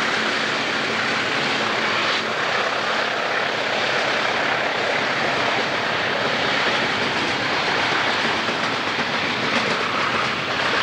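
Freight train of loaded log cars rolling past, a steady noise of wheels on the rails.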